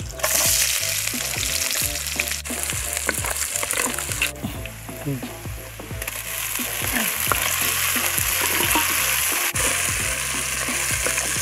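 Sliced onions, then chopped tomatoes, frying and sizzling in hot oil in a clay pot, with dense crackling and spitting. The sizzle dips briefly and comes back stronger about six seconds in, as the tomato goes in.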